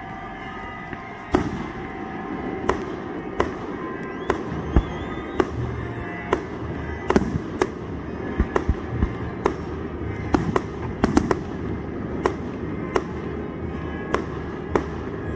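Aerial fireworks going off: an irregular run of sharp bangs, some in quick clusters, with a brief rising whistle about four seconds in.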